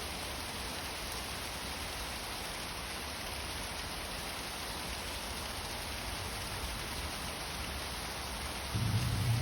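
Waterfall: a steady, even rush of falling water. A low hum joins near the end.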